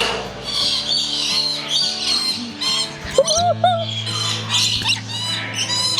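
A flock of parrots chirping and squawking, many quick high calls overlapping, over background music with long held notes.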